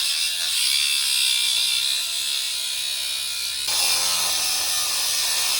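Power tool cutting metal: a steady, loud, high-pitched grinding hiss over a faint motor whine, changing slightly in tone about two-thirds of the way in.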